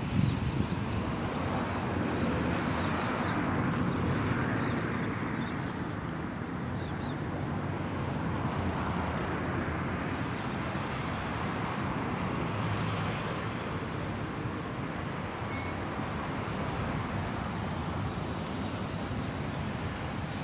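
Steady road traffic noise, with vehicles passing about a third of the way in and again past the middle.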